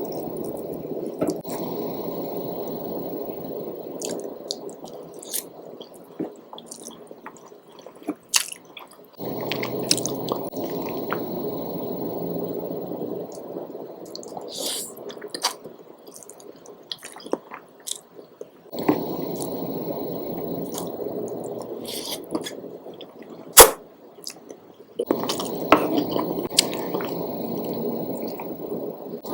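Close-miked eating of spicy noodles and jumbo shrimp: wet chewing and mouth sounds with many sharp clicks, and stretches of dense, low, rustling noise that start and stop abruptly. One click about three-quarters of the way through is much louder than the rest.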